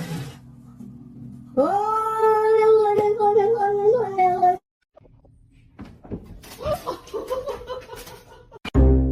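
A domestic cat yowling in one long, drawn-out call of about three seconds, its pitch wavering slightly, which cuts off abruptly. Music starts near the end.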